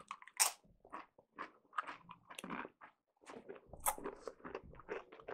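Close-miked crunching and chewing of a crisp chip: a string of short, sharp crunches in irregular succession.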